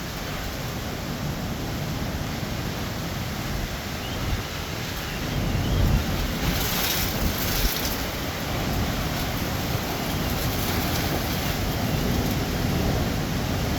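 Heavy thunderstorm rain pouring down in a steady rush of noise, swelling louder for a couple of seconds about six seconds in.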